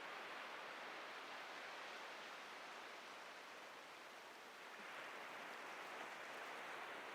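Ocean surf washing steadily on the beach, easing off a little about four seconds in and swelling again as the next wave breaks about five seconds in.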